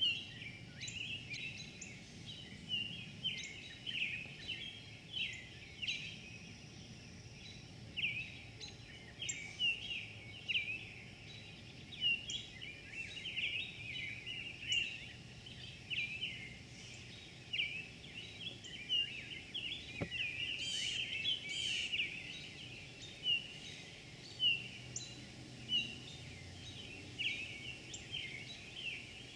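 Several small birds chirping and singing together: a busy run of short, quick chirps, several a second.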